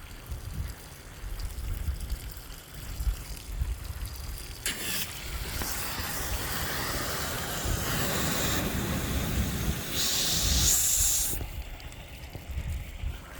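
Water spraying from a garden hose: a steady hissing spray starts about a third of the way in, grows sharper and louder near the end, then cuts off suddenly. A low rumble of wind or handling on the phone's microphone runs under it.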